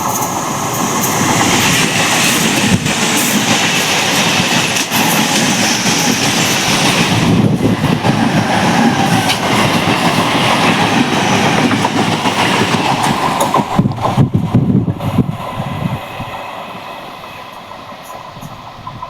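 Passenger train running past close by, its wheels clattering over the rail joints with scattered sharp knocks. The noise fades over the last few seconds as the train moves away.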